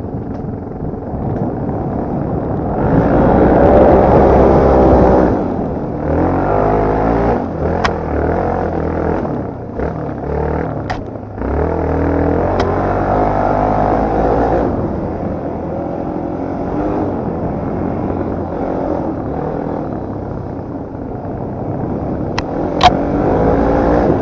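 Motocross dirt bike engine revving up and down as it is ridden over rough ground. It is loudest in surges about three to five seconds in and again around twelve to fourteen seconds in, with a few sharp clacks along the way.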